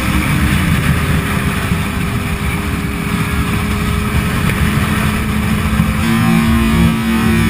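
Sportbike engine running at steady high revs, heard onboard along with a loud rushing noise.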